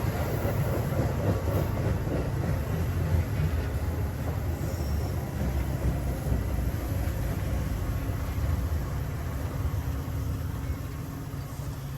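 Metra UP West commuter train rolling into the station: a steady rumble of steel wheels on rail and the diesel locomotive, easing off slightly near the end.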